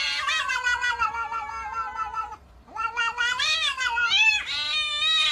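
Domestic cat yowling: one long drawn-out call, then after a short break a run of shorter calls that waver up and down in pitch.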